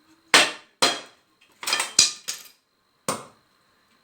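A series of about six sharp knocks and clatters, irregularly spaced, from thin sticks of firewood being handled and knocked against the fireplace while the fire is fed.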